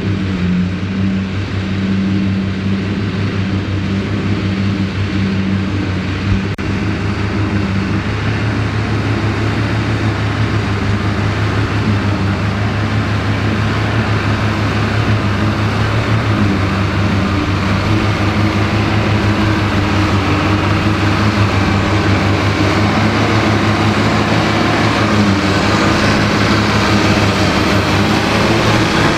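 Ford 8630 tractor's diesel engine running steadily under load while driving a Mengele SH40N forage harvester chopping silage, with a little more high-pitched machine noise near the end.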